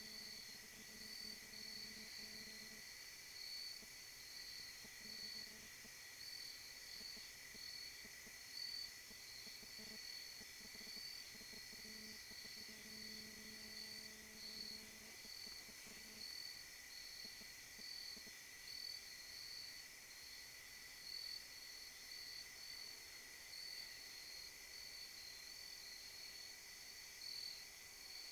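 Faint night insect chorus: crickets chirping in a steady pulsing rhythm over a continuous higher insect drone. A faint low hum also sounds and stops about halfway through.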